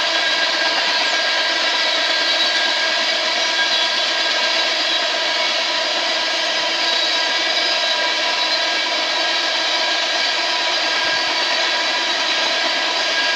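Empty oil tank cars of a freight train rolling past: a steady rush of steel wheels on rail with several high tones held steadily over it.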